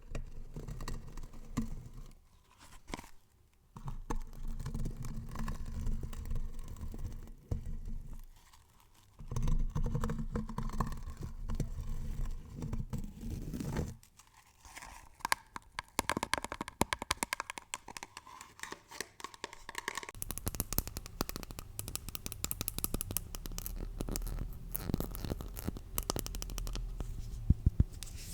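Close-miked ASMR trigger sounds: rough scratching and crinkling textures that stop and start, then a run of rapid clicks or taps about halfway through, turning into a crackly, hissing texture near the end.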